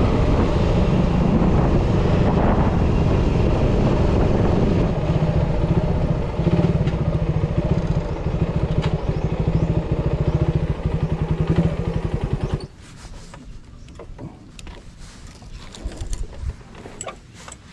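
Suzuki Raider 150's single-cylinder four-stroke engine running steadily while the motorcycle is ridden. About twelve and a half seconds in the sound cuts off suddenly, leaving a quiet background with a few faint clicks and knocks.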